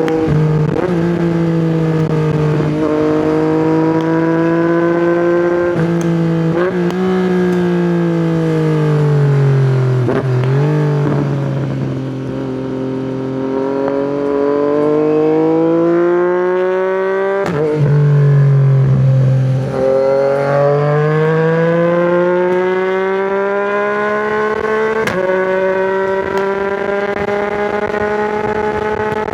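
Yamaha MT-09's inline three-cylinder engine through an Akrapovic exhaust, running under way. The pitch holds steady, sinks slowly as the rider eases off, then climbs and settles again, with abrupt breaks in pitch at gear changes about ten seconds in and again past halfway.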